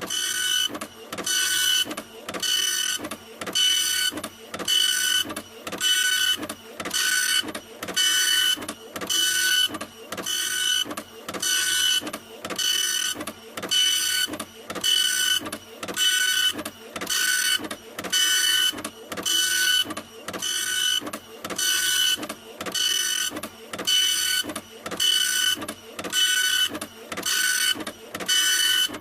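Printer printing, with a whining pass that repeats evenly a little faster than once a second.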